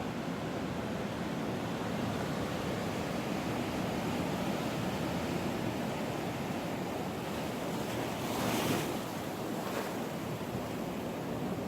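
Ocean surf washing onto the beach: a steady rushing noise, with a brief louder rush about eight and a half seconds in and a smaller one about a second later.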